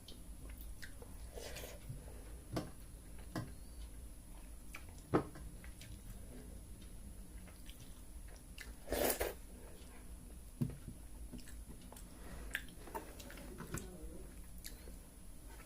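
Close-up chewing and biting sounds of a person eating pakhala (wet, water-soaked rice) with chicken curry, with scattered small mouth clicks and one louder, noisier mouth sound about nine seconds in.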